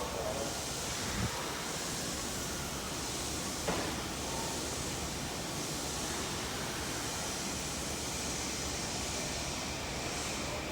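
Steady hiss and low rumble of a railway station platform between trains, with two faint knocks, one about a second in and one near four seconds.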